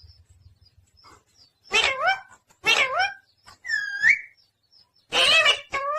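A pet parrot calling in a series of about five short pitched squawks, one of them a clearer rising whistle about four seconds in.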